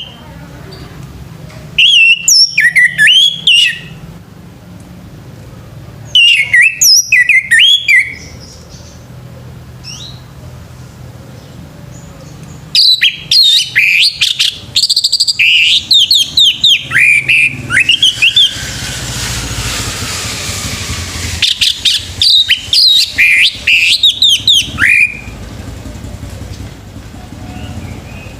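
Male orange-headed thrush singing: four bursts of rapid, fluting whistled phrases with notes sliding up and down, separated by pauses of a few seconds.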